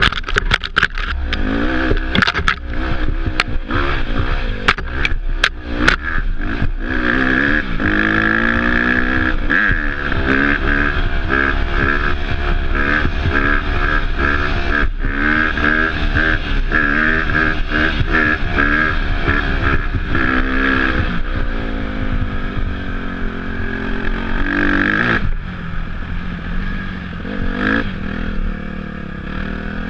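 Off-road motorcycle engine revving up and down while being ridden, with a run of sharp knocks and clatter over the first several seconds. The engine eases off and drops in pitch about 25 seconds in.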